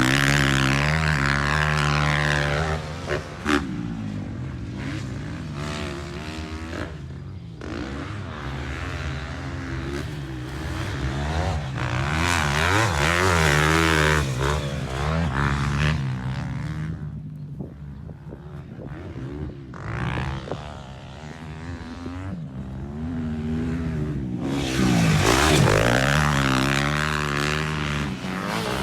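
Motocross bike engines revving up and falling back as the bikes ride round a dirt track. The sound swells as bikes pass close: near the start, about halfway through and again near the end.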